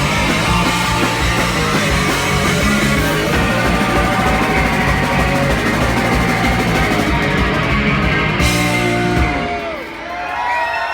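Punk rock band playing live and loud, with drum kit and distorted guitars. The song ends about nine seconds in, giving way to voices and shouts.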